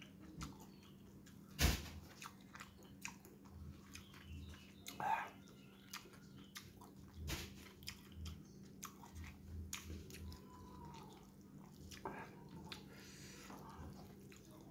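Close-miked chewing and biting of a mouthful of rice and balado egg, with many short wet mouth clicks. A sharper click comes about one and a half seconds in, and a steady low hum sits underneath.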